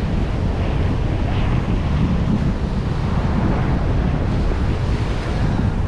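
Wind buffeting the microphone in a steady low rumble, over the wash of ocean surf breaking on the beach.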